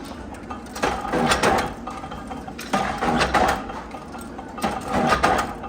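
Nut-making factory machinery running in a repeating cycle, a burst of metallic clatter about every two seconds over a steady machine hum.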